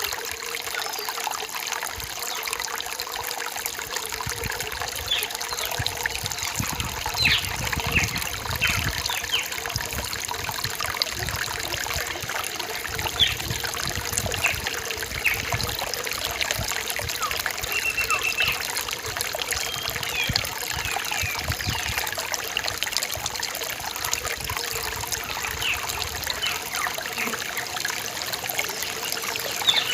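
Rainforest stream trickling and splashing steadily over rocks, with small birds giving short chirps and calls above it throughout.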